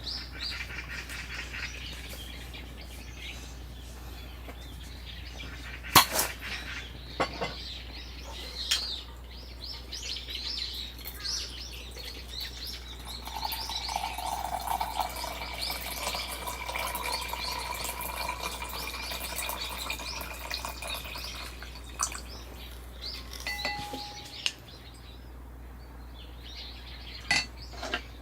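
Small birds chirping again and again, with a few sharp clicks or clinks standing out now and then.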